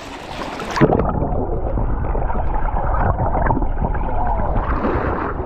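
Splashing as the camera goes under the lake water, then, about a second in, muffled underwater bubbling and gurgling.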